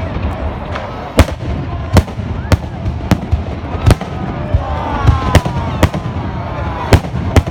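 Aerial fireworks going off: about nine sharp bangs at irregular intervals over a continuous low rumble.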